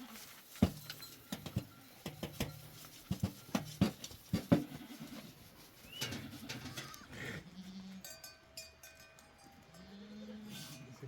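Goats and sheep bleating, with a run of sharp clicks and knocks through the first half.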